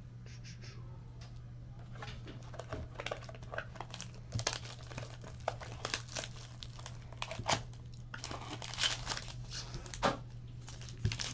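Trading-card pack wrapper crinkling and tearing as a pack is opened by hand, with irregular crackles that get busier after the first couple of seconds.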